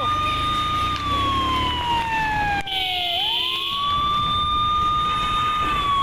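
Recorded police siren played through a loudspeaker on a moving two-wheeler, in a slow wail. It holds high, falls slowly from about a second in, sweeps back up around three seconds in, holds, and starts falling again near the end, over a low rumble.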